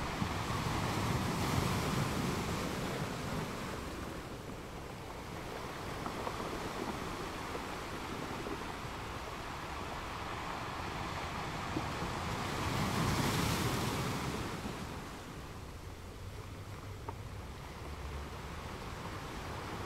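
Sea waves washing onto a shore in a steady hiss of surf. Two waves swell up and break, one a second or two in and a stronger one about two-thirds of the way through, each then draining away.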